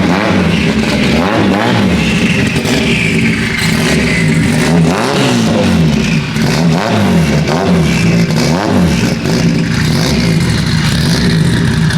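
Turbocharged KA24DET inline-four in a Nissan 240SX running under way, its revs rising and falling again and again.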